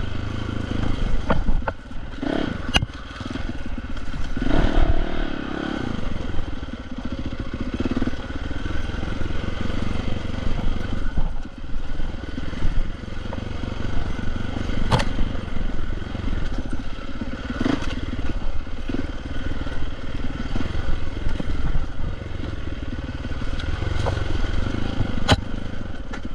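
Dirt bike engine running under way on a trail, its level rising and falling with the throttle, with a few sharp knocks scattered through.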